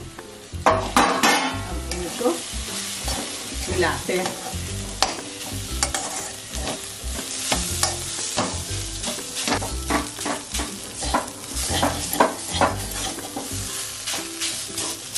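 Watery grated radish frying in hot oil in a steel kadhai, sizzling steadily, while a spatula stirs it with repeated scrapes and knocks against the pan.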